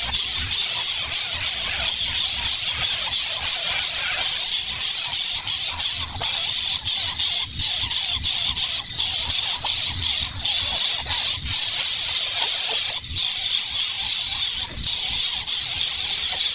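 Insects chirring steadily, with an evenly pulsing high trill, scattered short clicks and a low rumble underneath.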